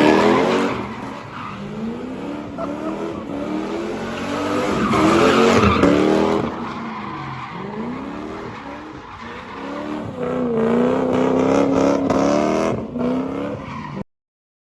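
Lexus GS400's 4.0-litre V8 revving hard again and again, its pitch climbing and falling back, with the rear tires skidding and squealing as the welded differential makes both rear wheels turn together. The sound cuts off suddenly near the end.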